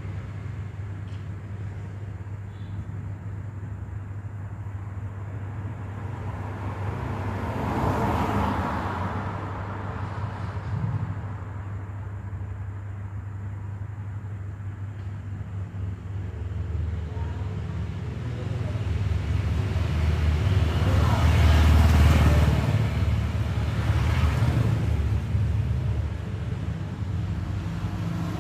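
Road traffic: a steady low rumble with vehicles passing by, one swelling up about eight seconds in and a louder stretch of passing traffic from about twenty to twenty-five seconds in.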